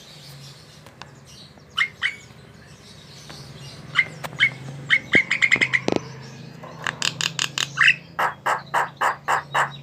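A jalak starling calling: a few sharp single notes, then a quick chattering run, then a fast series of loud repeated notes, about four a second, toward the end.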